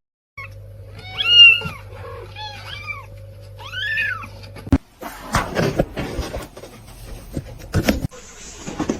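A cat meowing several times, with drawn-out rising-and-falling calls over a steady low hum; the loudest comes about a second and a half in. About five seconds in it gives way to scattered knocks and rustling.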